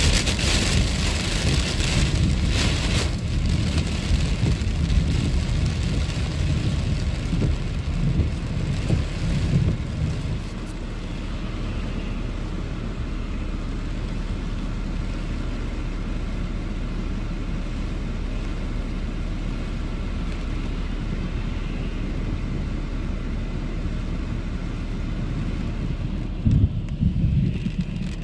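Heavy rain heard from inside a car: rain on the roof and windshield with tyre hiss on the wet road, louder for the first ten seconds, then a steadier, quieter rain. Near the end comes a short, louder low rumble.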